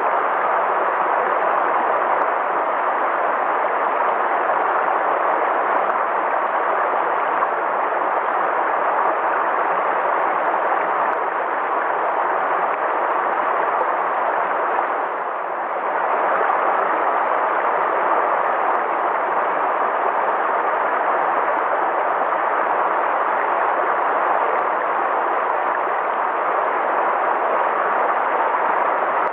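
River water flowing: a steady rushing that dips briefly about halfway through.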